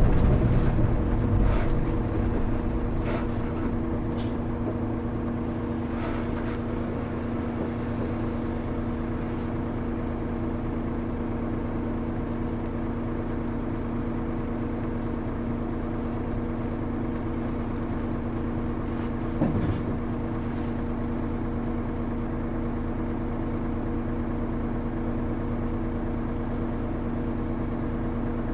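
Hino Rainbow HR city bus diesel engine slowing to a standstill and then idling at a steady, unchanging pitch, heard from inside the bus. There is a single brief knock about two-thirds of the way through.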